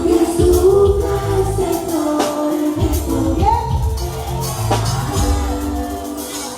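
Live band music, Peruvian cumbia, with a bass line, percussion and a singing voice over it.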